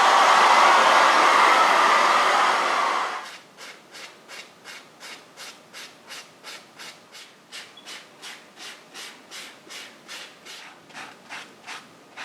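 A loud steady rushing hiss cuts off about three seconds in. After it comes hand scuffing of an aluminium motorcycle engine casing, an even back-and-forth rubbing of about three strokes a second.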